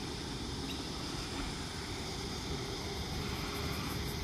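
Sydney Trains electric suburban train approaching along the track: a low, steady rumble that grows slightly louder.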